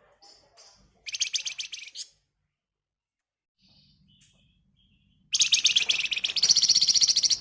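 Flamboyan (wergan Jawa) songbird singing rapid, dense trills: a short burst about a second in, then a louder, longer trill in the second half that steps up in pitch partway through.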